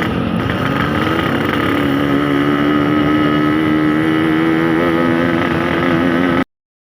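Yamaha RX King 135 two-stroke motorcycle engine running under way, its pitch rising over the first couple of seconds and then holding steady. The sound cuts off abruptly about six and a half seconds in.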